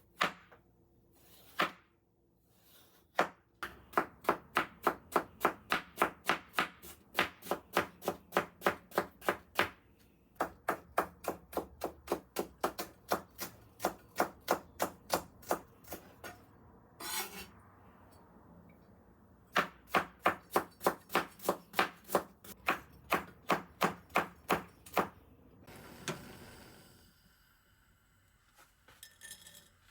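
Kitchen knife chopping on a cutting board in steady strokes, about three a second, in two long runs with a short break in between.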